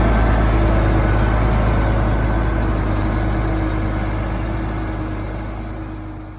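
Heavy diesel engine of earthmoving machinery running steadily with a deep rumble, fading out gradually over the second half.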